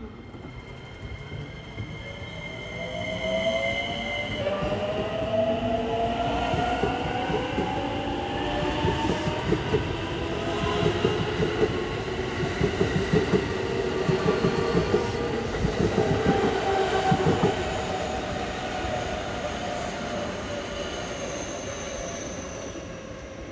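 Commuter electric train passing close by: a motor whine glides up in pitch and later falls, while the wheels clatter rhythmically over the rail joints, loudest in the middle, before the sound fades as the train goes.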